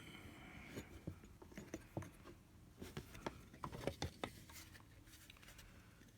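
Hands handling a charger cable and its plastic case on a work surface: faint, scattered light clicks and taps with some rubbing, a cluster of sharper clicks around the middle.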